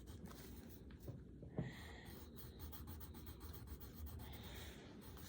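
Faint scratching of colored pencil on paper: coloring strokes that come and go.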